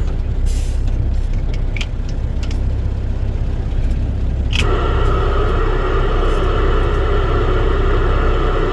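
Dump truck's engine running with a steady low rumble, heard from inside the cab. About four and a half seconds in, a steady whining buzz starts suddenly in the cab radio: static that the truck's backup alarm puts into the radio as it reverses.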